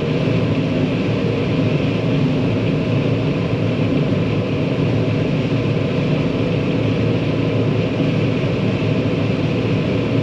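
Diesel harvest machinery running steadily at working speed while corn is augered into a truck.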